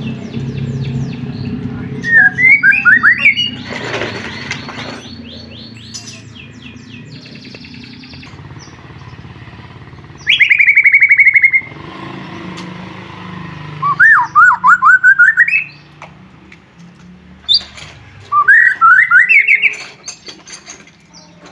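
White-rumped shama (murai batu) singing: four loud phrases of rapid, warbling whistled notes, each a second or two long, with softer chirps in the pauses between them.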